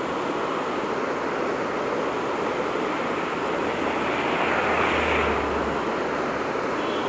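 River water rushing steadily below, a continuous rush that swells a little about four seconds in, when a low hum briefly joins it.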